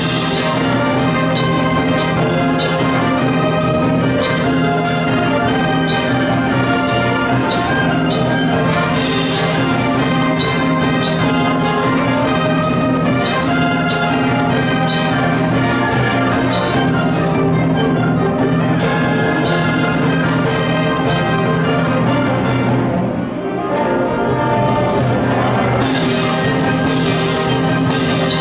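High school concert band playing, with brass prominent over the ensemble and some percussion. The music eases briefly about two-thirds of the way through, then carries on at full strength.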